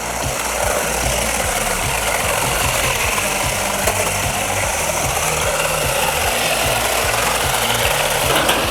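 The small electric motors of toy-grade RC drift cars whine, rising and falling in pitch as they speed up and ease off. Under the whine is a steady rasp of hard plastic drift tyres sliding.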